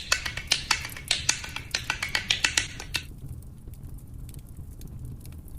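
Rapid sharp clicks, several a second at an uneven pace, stopping about three seconds in; after that only a faint low hum with a few faint ticks.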